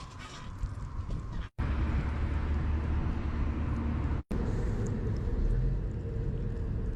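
Strong wind buffeting the microphone over the running noise of a small camper vehicle on the move. The sound cuts out abruptly twice, about a second and a half in and again just past four seconds.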